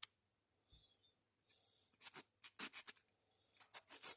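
A single sharp click, then a small steel revolver part being rubbed by hand on an abrasive to polish it: a few separate strokes about two seconds in, settling into a quick steady back-and-forth of about five strokes a second near the end.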